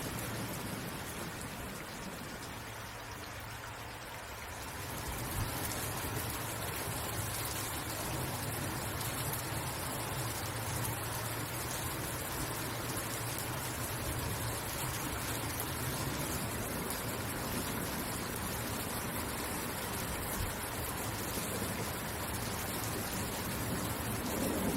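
Steady rainfall, a continuous hiss of rain on surfaces, easing slightly for a few seconds and picking up again about five seconds in.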